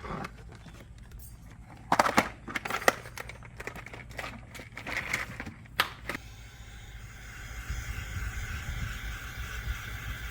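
Clicks and knocks from handling wiring and trim pieces in a pickup truck's cab, loudest about two to three seconds in. About six seconds in a steady hum starts and keeps going.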